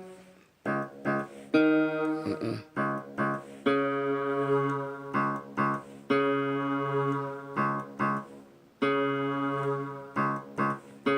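Guitar playing chords, each struck and left to ring, some repeated quickly and some held for a second or two.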